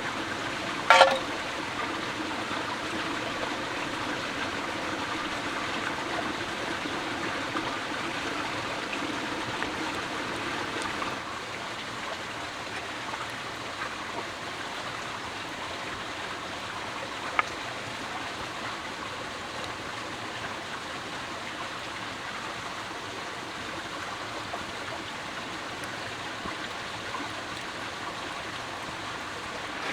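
Steady rush of running water, with a sharp knock about a second in and a fainter click around 17 seconds.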